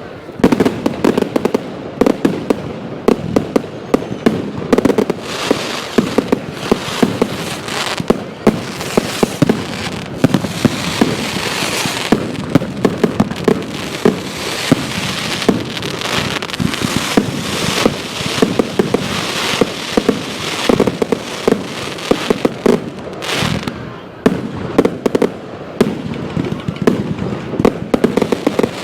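Fireworks going off in rapid succession: many sharp bangs one after another over continuous crackling, densest for several seconds early on.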